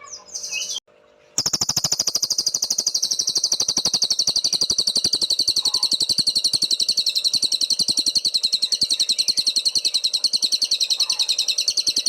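A cililin songbird singing a long, fast trill of rapidly repeated high notes. It begins about a second and a half in after a couple of short chirps and carries on steadily without a break.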